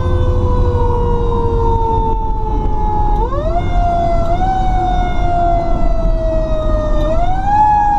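Fire truck's mechanical siren (the Q) coasting slowly down in pitch, spun back up twice with a quick rising wail, over the low rumble of the truck's engine.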